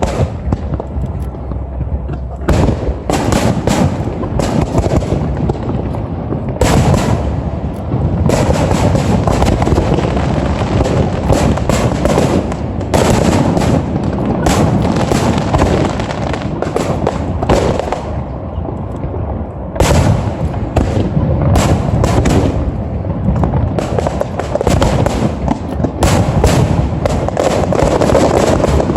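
Aerial fireworks display: a dense, continuous barrage of bursting shells, with booms and crackling overlapping one after another without a break.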